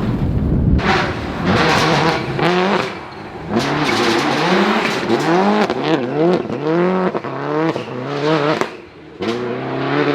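Rally car engine revved hard in quick bursts, its pitch climbing and falling again and again as the throttle is worked, with short lulls about three seconds in and near the end.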